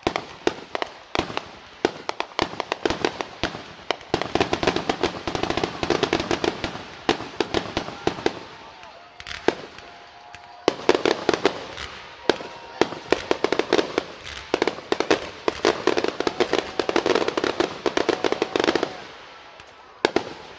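Fireworks finale: rapid volleys of shell bursts and crackling, coming thick and fast, easing briefly about halfway through and again near the end.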